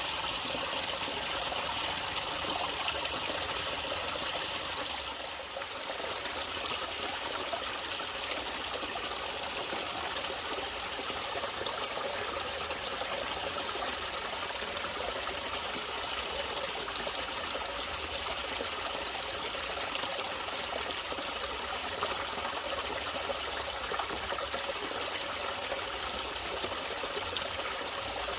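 Water of a small stream trickling and flowing steadily, with a brief dip in level about five seconds in.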